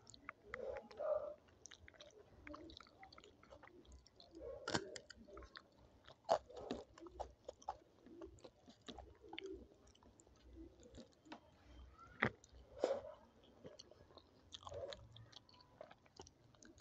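Close-up mouth sounds of a person eating dal, rice, papad and salad: wet chewing broken by sharp crunchy bites, the loudest about five and twelve seconds in.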